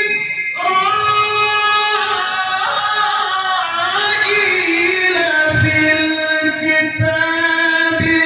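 A male Quran reciter's voice in melodic tilawah style, holding a long ornamented note that wavers and bends in pitch. After a short break at the start it runs on as one drawn-out phrase and settles on a lower steady tone about five seconds in.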